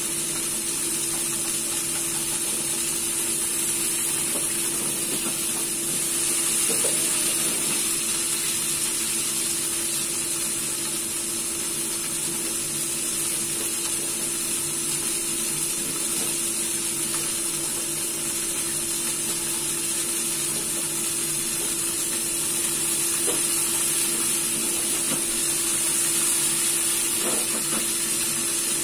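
Chicken wings frying in oil in a frying pan: a steady sizzle, with a few light clicks of metal tongs turning the pieces. A steady low hum runs underneath.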